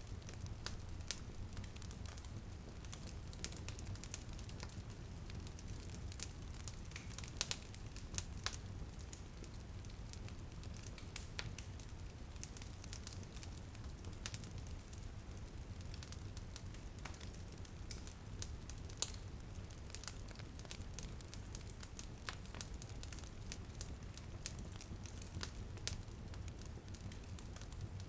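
Wood fire crackling, with frequent irregular sharp pops over a steady low rumble, and light rain on a window softly underneath.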